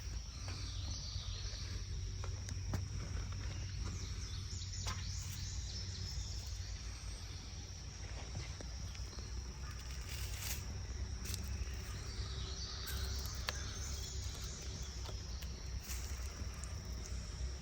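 Outdoor ambience: a steady high insect drone over a low rumble, with a few faint bird chirps about a second in and again near thirteen seconds.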